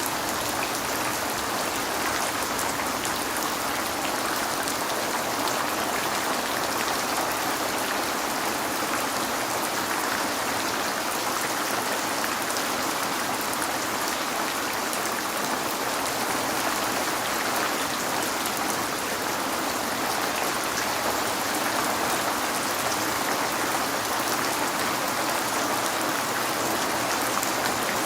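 Steady rain falling on a window: an even hiss with many small drop ticks.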